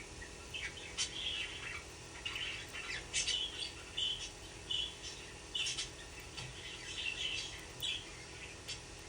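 Young budgerigar chirping: a string of short, high chirps and squawks, some with sharp clicky onsets.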